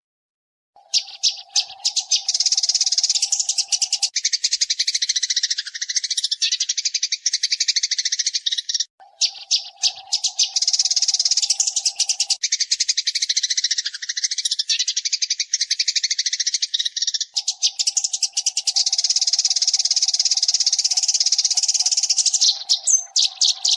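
Eurasian tree sparrow chirping very fast and densely in three long unbroken runs, with two short breaks between them. A faint steady low hum sits under the start of each run.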